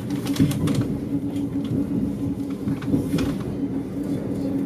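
Interior running noise of a moving Stadler FLIRT passenger train: a steady low rumble with a constant hum, and a few short clicks from the wheels on the track.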